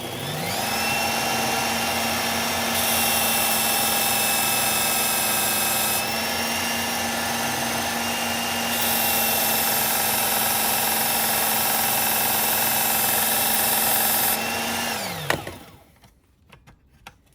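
Electric knife sharpener's motor spinning up, running steadily, then spinning down about fifteen seconds in. Twice, for a few seconds each, a knife blade is held to the abrasive and adds a grinding hiss. This is the final sharpening passes on a Gerber Propel Downrange blade.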